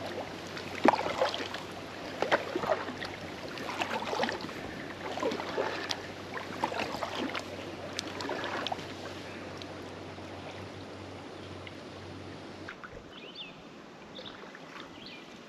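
Kayak paddle dipping and splashing in a river, with water sloshing around the hull. The splashes are frequent at first and thin out after about nine seconds, leaving quieter water sounds.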